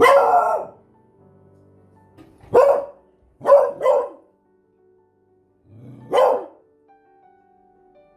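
Beagle barking: five loud, separate barks at uneven intervals, two of them coming quickly one after the other near the middle.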